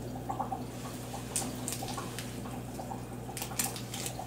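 Quiet chewing of a chocolate nougat bar, with small wet mouth clicks and smacks, over a faint steady hum.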